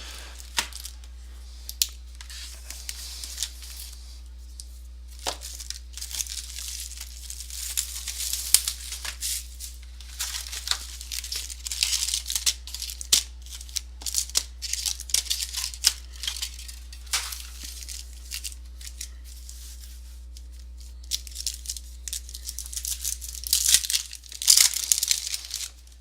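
Cellophane wrap and foil trading-card packs of a 2014 Topps Prime Football box being torn open and crinkled by hand: irregular crackles and sharp tearing, loudest near the end. A steady low electrical hum runs underneath.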